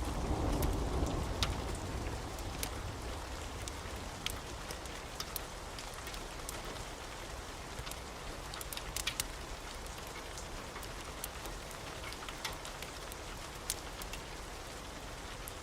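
Steady rain falling, with scattered sharp ticks of drops. A low rumble of thunder dies away over the first second or two.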